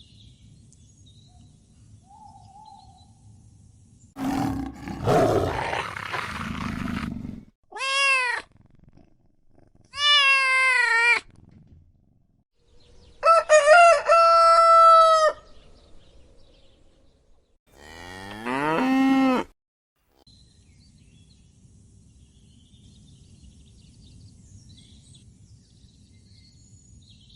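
Animal calls: a rough roar about four seconds in, then four separate pitched calls, the last one rising and wavering.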